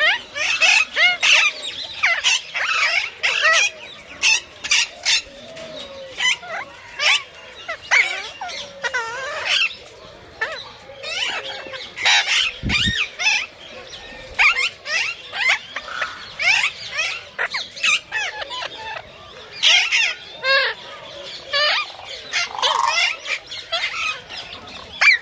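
Parrots calling: a busy run of short squawks and wavering whistled calls, one after another with brief gaps.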